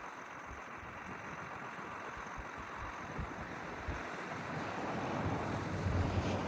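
John Deere 8450 tractor's diesel engine running as the tractor is driven, with wind buffeting the microphone; the engine gets louder over the last couple of seconds.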